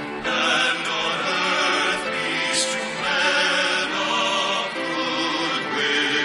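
Choral music: voices singing held notes with instrumental accompaniment, the chords changing every second or so.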